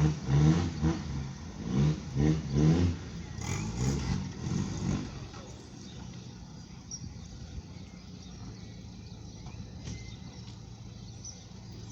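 Car engine revving in short rises over the first five seconds, then running on as a steadier, quieter low hum.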